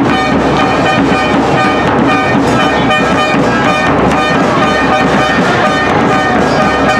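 Loud brass music with long held horn notes over a dense, noisy background, with no break.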